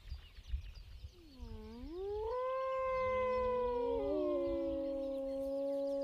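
Grey wolves howling: a howl swoops down and back up about a second and a half in, then holds a long steady note, and a second, lower howl joins it about halfway through.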